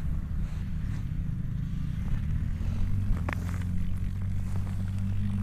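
Vehicle engine running with a steady low rumble, and a single short click about three seconds in.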